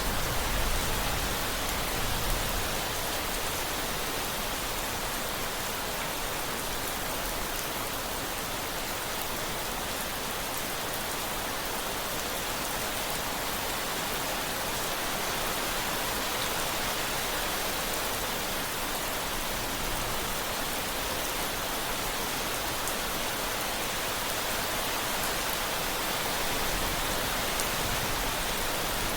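Steady rain, an even dense hiss of falling drops. A low rumble of distant thunder swells in the first few seconds and again near the end.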